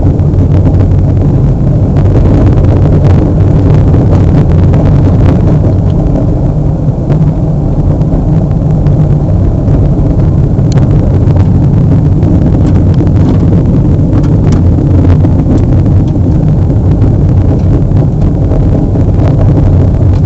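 A car driving: a steady, loud low rumble of engine and road noise, with occasional short clicks and knocks.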